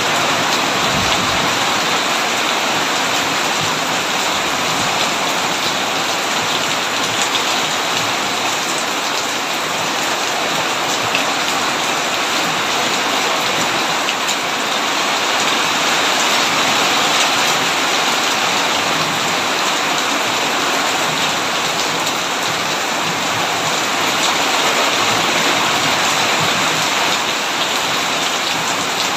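Heavy rain falling steadily on a tin roof, a dense even hiss with no thunder standing out.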